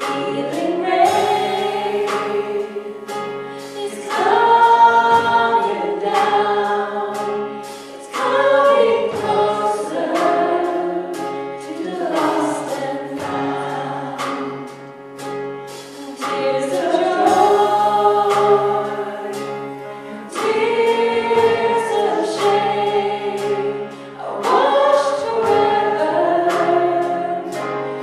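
A group of voices singing a slow worship song over sustained low accompanying notes, in phrases separated by short dips every few seconds.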